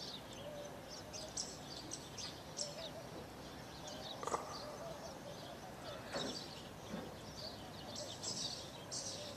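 Birds chirping over a low outdoor background: many short high chirps, with a couple of sharper downward-sweeping calls about 4 and 6 seconds in.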